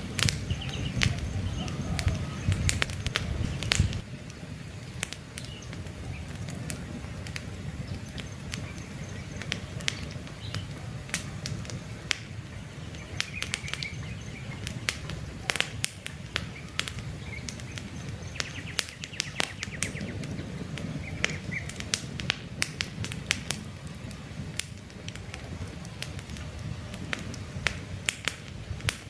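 Wood campfire crackling, with frequent sharp pops over the low rumble of the flames, which softens about four seconds in. Birds chirp faintly now and then.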